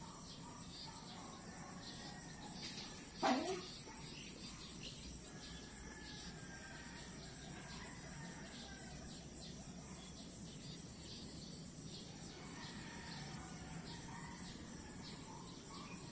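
Crickets chirping in a rapid, even pulse over a continuous high insect trill. About three seconds in, one brief louder call sweeps down in pitch.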